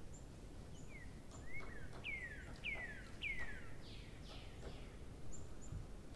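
A bird calling: a run of down-slurred whistled notes about every half second, loudest in the middle, with short very high chirps scattered among them over a steady low background noise.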